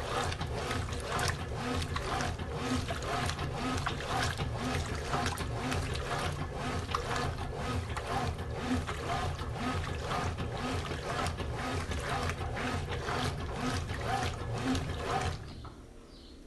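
Brastemp BWL11 washing machine washing: water sloshing in the drum to a regular rhythmic churning, over a low motor hum. The churning stops suddenly near the end.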